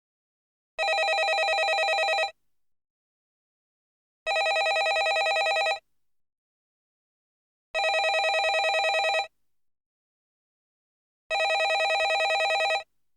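Landline telephone bell ringing in a repeating cadence: four rings in a row, each about a second and a half long, with about two seconds of silence between them.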